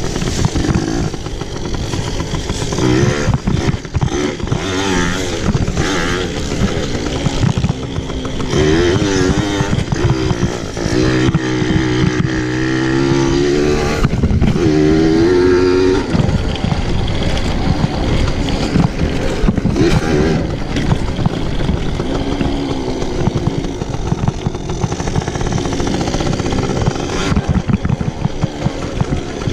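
Pit bike engine being ridden hard, its pitch rising and falling again and again as the throttle is worked, loudest and highest for a few seconds around the middle.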